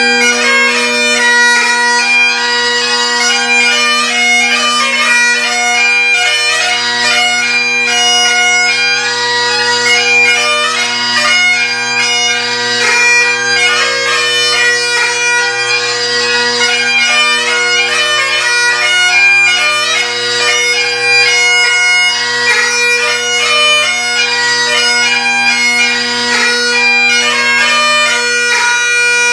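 Great Highland bagpipes played solo: the steady bass and tenor drones sound under a chanter melody ornamented with quick grace notes. The set is MacLellan Revelation pipes with a Shepherd chanter, a Chesney chanter reed and Kinnaird Evolution drone reeds.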